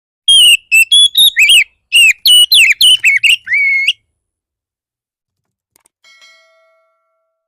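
Oriental magpie-robin (kacer) singing a fast, aggressive territorial song: a loud, quick run of rising and falling whistled notes for about four seconds, then stopping. A faint short tone follows near the end.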